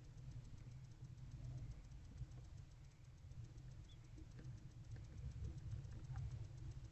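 Barn owlets shuffling in a wooden nest box, giving faint light scratches and taps over a steady low rumble.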